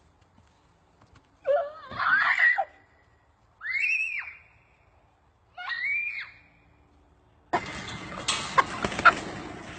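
Three shrill screams, each rising and then falling in pitch, about two seconds apart. Near the end comes a noisy stretch with several sharp knocks.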